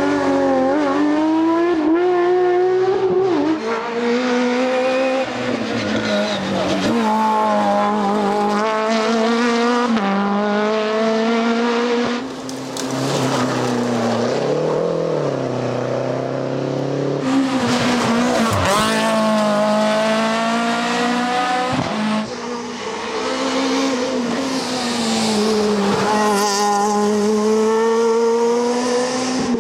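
Rally car engines at full race pace, revving up and dropping back again and again through gear changes and lifts, with several different cars heard one after another.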